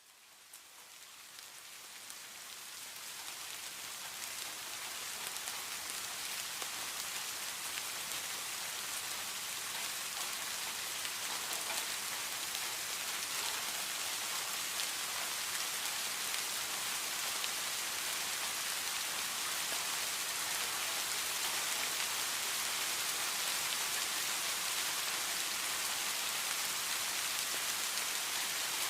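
Steady rain falling, an even hiss of drops that swells up from near silence over the first several seconds and then holds steady.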